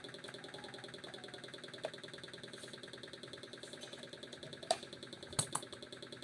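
A small motor running steadily with a fast, even pulse, with a few sharp clicks of parts being handled, one a couple of seconds in and three close together near the end.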